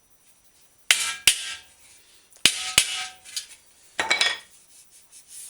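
Hammer blows knocking a dent out of a metal bicycle fender over wooden blocks, each strike ringing briefly. There are two pairs of sharp blows, then a quick flurry about four seconds in.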